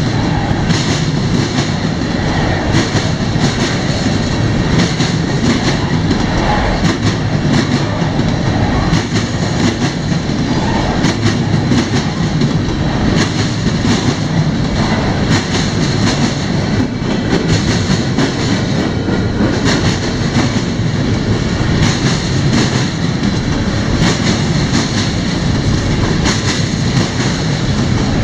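Freight train cars rolling past: a steady, loud rumble of steel wheels on rail with many clicks and clacks from wheels passing over rail joints.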